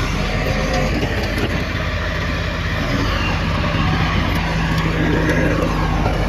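Heavy diesel earthmoving machinery running steadily, its engine note holding with slight rises and falls in pitch.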